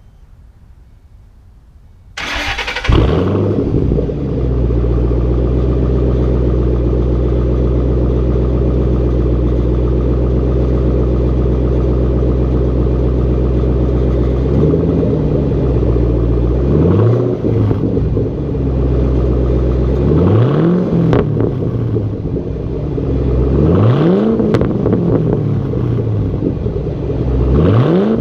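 Ford Mustang GT's 4.6-litre V8 starting semi-cold through a Roush Extreme Performance straight-through catback exhaust, catching about two seconds in and settling into a steady deep idle. In the second half it is revved in about five quick throttle blips, each rising and falling back to idle.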